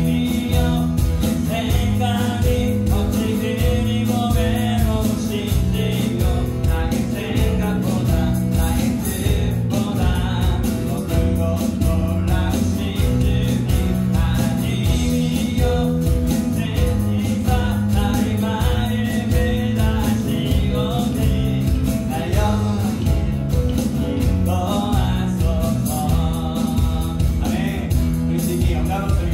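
Contemporary worship song played live by a small band of acoustic guitar, keyboard, bass guitar and electronic drums, with sung vocals over a steady drum beat.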